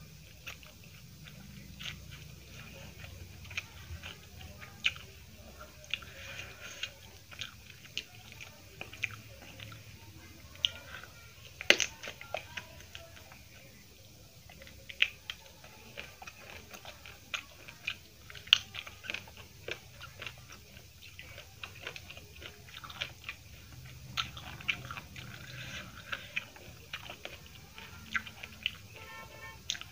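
Close-miked chewing of a mouthful of white rice and fried-egg tomato curry, with many short wet mouth clicks and smacks throughout and one sharper click near the middle.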